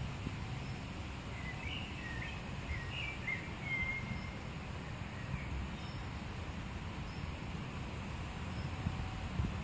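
Small bird chirping a short run of quick high notes about one and a half to four seconds in, over a steady low outdoor rumble.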